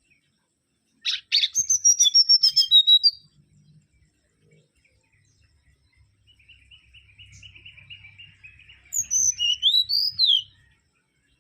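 Mangrove whistler singing. About a second in comes a fast run of high whistled notes, then a quieter series of lower notes. Near the end a loud phrase of rising notes finishes in a whistle that slurs up and drops away.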